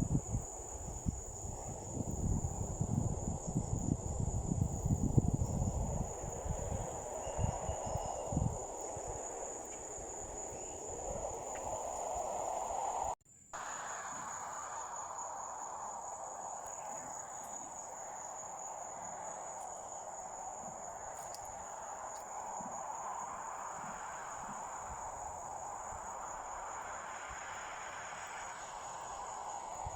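Insects trilling in one continuous high, steady note over a soft outdoor hiss, with gusty low rumbles during the first several seconds. The whole sound cuts out for a split second about halfway through.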